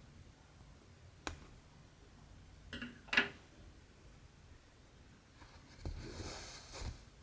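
Needle and cotton thread worked through cross-stitch fabric: a sharp click, two short scratchy pulls, then a longer rasping draw of thread near the end.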